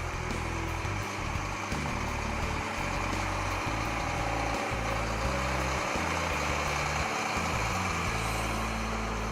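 Case IH STX500 four-wheel-drive tractor's diesel engine idling steadily.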